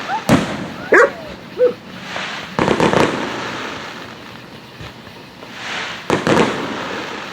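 Aerial firework shells bursting overhead: a run of sharp booms, each trailing off in a rolling echo. There is a cluster of bursts about three seconds in and another near the end.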